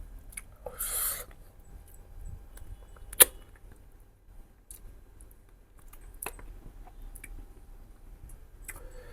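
Close-miked eating of mutton ribs: soft mouth and chewing noises with scattered small clicks, a short noisy burst about a second in, and one sharp loud click about three seconds in.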